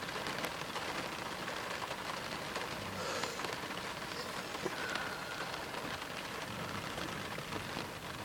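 Steady rain falling on a car, heard from inside the car, with faint ticks of single drops.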